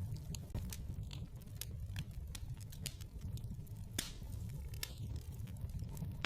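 Wood fire crackling in a fireplace: irregular sharp pops and snaps over a low steady rumble of the flames, with one louder pop about four seconds in.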